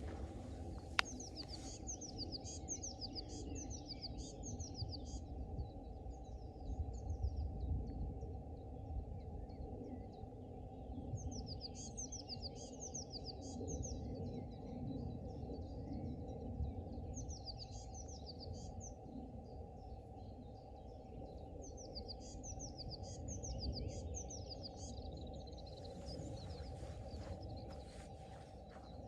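A songbird singing repeated phrases of quick, descending high chirps, each phrase lasting two or three seconds and coming back about every five or six seconds, over a steady low background rumble. There is one sharp click about a second in.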